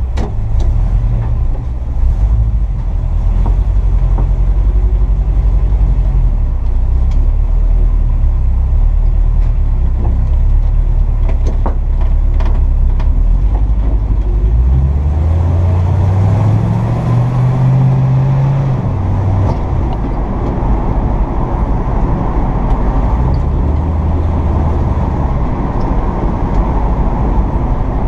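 1957 Chevrolet 3100 pickup's engine running steadily; about halfway through its pitch climbs for a few seconds, then drops back.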